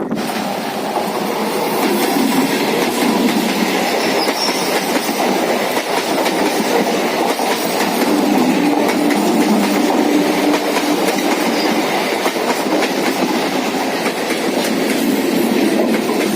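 Suburban local passenger train running along the track: a loud, steady rumble of wheels on rails that starts abruptly.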